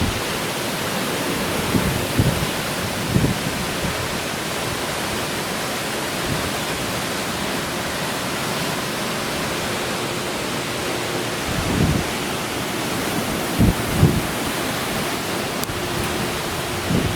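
Hurricane wind and driving rain: a steady rushing hiss, with gusts buffeting the microphone in short low thumps a few times.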